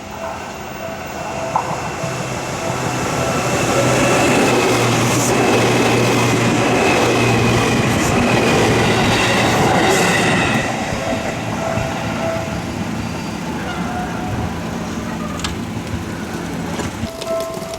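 A Seibu Kokubunji Line electric train passing over a level crossing, its wheels clacking over the rail joints. It builds up, is loudest for about six seconds in the middle and then fades, and a steady warning-bell tone comes back near the end as the crossing keeps sounding.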